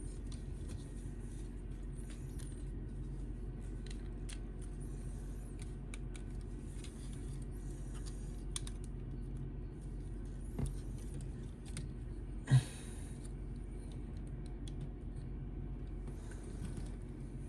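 Small plastic clicks and rustles of a Transformers action figure being handled and turned, with one sharper knock about twelve seconds in, over a steady low hum.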